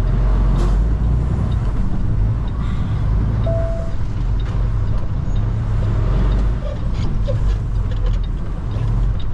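Semi-truck's diesel engine running, heard inside the cab as a steady low drone.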